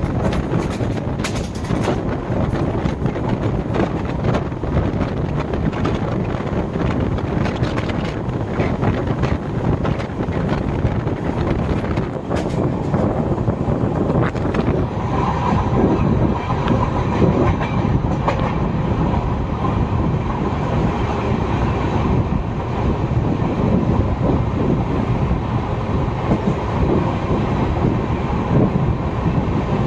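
Express passenger train running on the track, heard from on board: a steady rumble with clattering wheels over the rail joints and scattered sharp clicks. A faint steady high whine joins about halfway.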